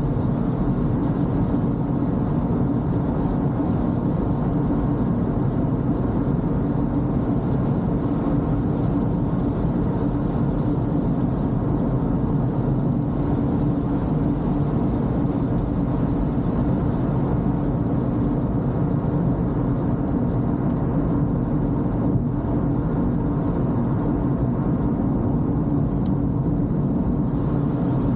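A Toyota Corolla driving on a wet road: steady engine and tyre noise with a low, even rumble.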